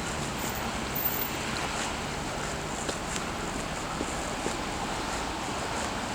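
Steady outdoor wind noise buffeting the microphone, with a few faint small ticks.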